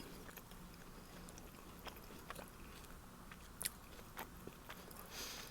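A person quietly chewing a toasted sub sandwich on herbs-and-cheese bread, with a few faint crunchy clicks spread through and a short hiss near the end.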